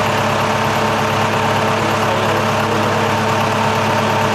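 Catamaran's diesel engine running steadily at low revs, a constant hum with no change in pitch.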